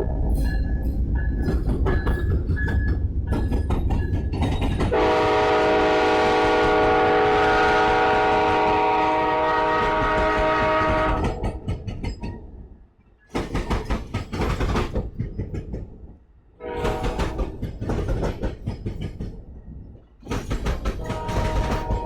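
Amtrak passenger train with diesel locomotives passing close. First comes a heavy engine rumble with a bell dinging, then a long multi-note air horn blast. Then Superliner cars roll by with their wheels clacking over rail joints in uneven bursts, and the horn sounds again near the end.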